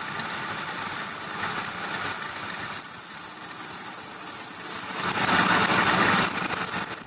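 Metalworking machine tool running steadily, with cutting noise that grows louder and harsher about five seconds in.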